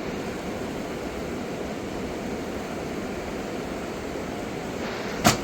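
Steady rushing noise with no pitch, with one sharp click about five seconds in.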